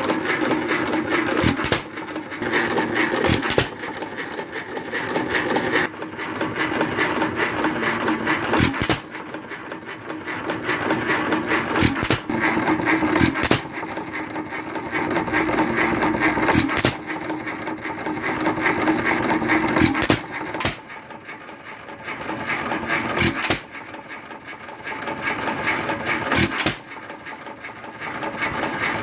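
Worthington 2.5 hp single-cylinder hit-and-miss engine running, firing with a sharp bang every one to five seconds at irregular spacing and coasting between firings with a steady mechanical clatter.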